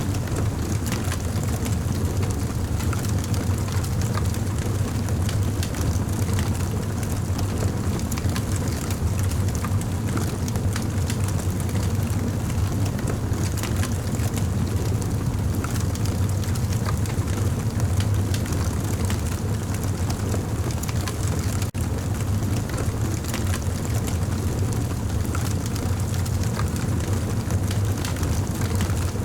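Campfire burning, with a steady low rumble and frequent small crackles and pops throughout.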